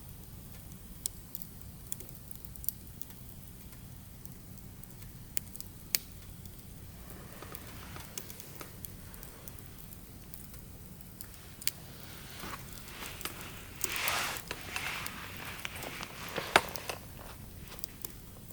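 Firewood burning, crackling with scattered sharp pops over a low steady hiss; in the second half the fire hisses in swells, and one louder pop comes near the end.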